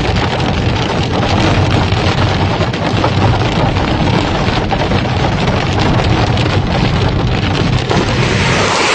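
Heavy rain pouring down in a loud, steady downpour, with wind buffeting the microphone and a low rumble underneath.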